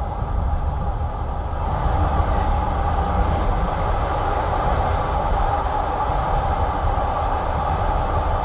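Railway train noise: a steady, dense rumble with a rolling hiss and no distinct wheel clicks, growing slightly brighter about two seconds in.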